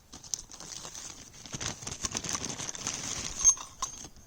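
Rustling and crinkling of a bag being rummaged through for fire-lighting gear, with a sharp click about three and a half seconds in.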